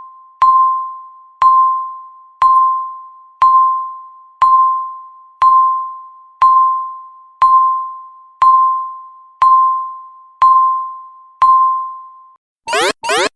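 Countdown timer beeping once a second, twelve times: each beep is a single electronic tone that fades quickly, marking the last seconds to zero. Near the end the beeps stop and a loud, rapidly pulsing alarm starts as the timer hits zero.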